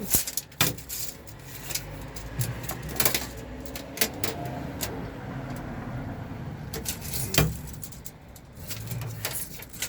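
Scattered clicks and knocks of a tape measure being handled and set against the panels of a van's cargo bay, over a low steady hum.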